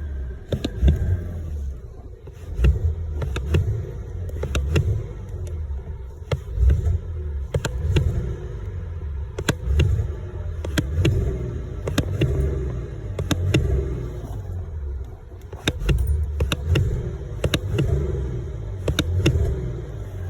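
Car engines revving again and again, the deep rumble swelling and falling, with many sharp cracks throughout.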